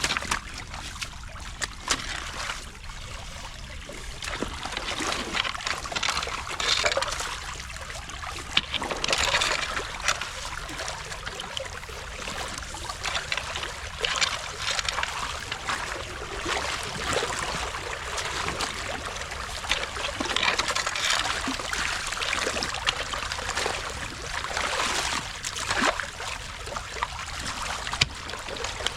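Water trickling and splashing through a beaver dam as it is broken open, with louder splashy surges every couple of seconds as the dam's mud and sticks are pulled away.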